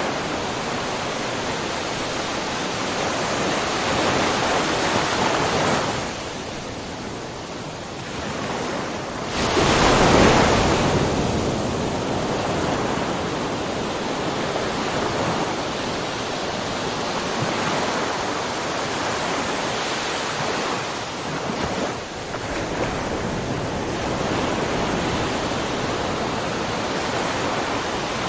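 Ocean waves washing in continuously, swelling and ebbing, with one bigger wave breaking about ten seconds in.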